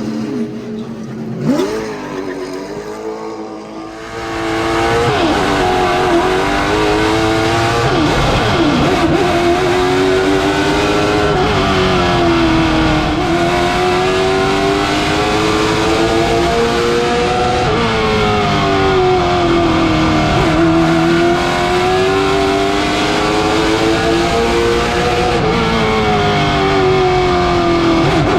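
Late model stock car's V8 engine running hard on a short oval, its pitch climbing and falling over and over as it accelerates down the straights and lifts for the turns. It is fainter for the first few seconds, then loud and continuous from about four seconds in.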